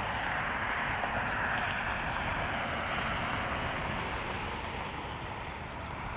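Steady rushing roar of a jet airliner's engines at an airport, easing off slightly toward the end.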